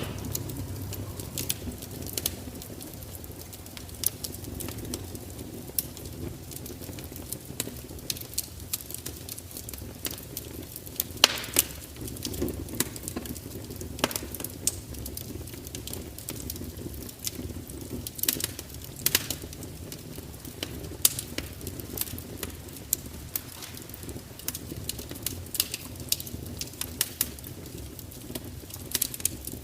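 Fire crackling: irregular sharp pops and snaps, a few of them louder, over a low steady rumble of burning.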